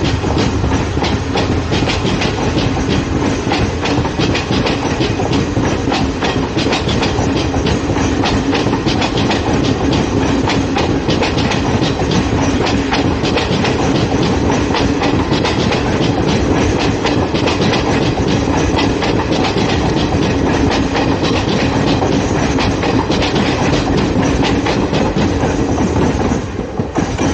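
Garib Rath express train's wheels running over the rails as it pulls out of the station: a continuous fast clickety-clack of wheels on rail joints and points over a steady rumble.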